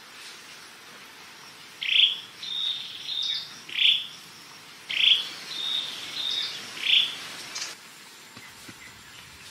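A songbird singing two similar phrases, each a loud sweeping note, a few short high whistles, then another loud sweeping note, over a steady background hiss.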